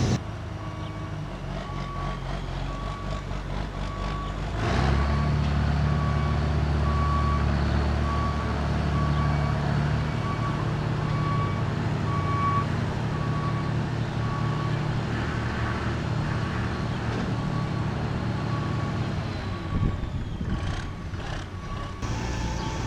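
Telehandler reversing, its backup alarm beeping steadily under the diesel engine; the engine gets louder about five seconds in and the beeping stops about two-thirds of the way through. A few sharp knocks near the end.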